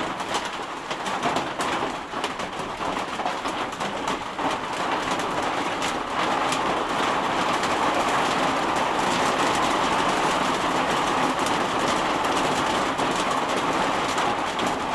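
Steady rain falling, with many small drop hits, getting heavier about six seconds in.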